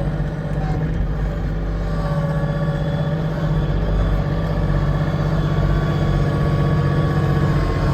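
Kioti CK2610 compact tractor's three-cylinder diesel engine running steadily while it pushes snow with a front blade, heard from inside the cab, with a faint higher whine alongside.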